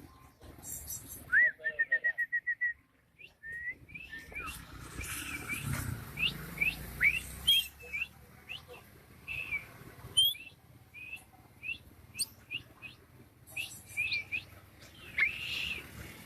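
Songbird chirping: a quick run of even notes about a second and a half in, then many short rising chirps scattered through the rest.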